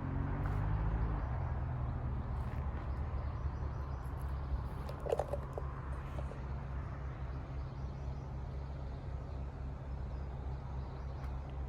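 Outdoor background noise: a steady low rumble with a light hiss over it, and a brief faint tonal call about five seconds in.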